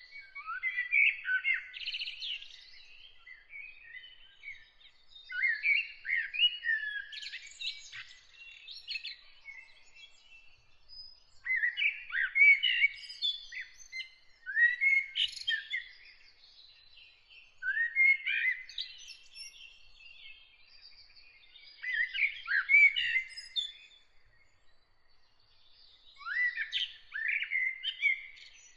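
A songbird singing in separate short, varied phrases, one every three to four seconds, about seven in all, with fainter bird chirps in the pauses between them.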